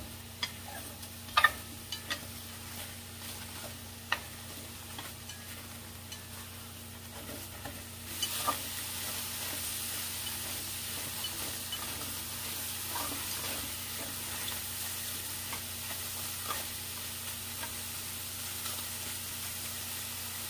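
Eggplant strips sizzling as they dry-fry in a hot stainless steel pan with no oil, stirred with wooden chopsticks that click against the pan a few times early on. The sizzle grows louder from about eight seconds in.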